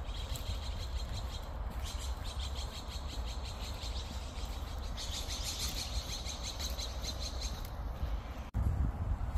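Songbird singing in the trees: three rapid, high trills, the last one the loudest, over a low steady rumble.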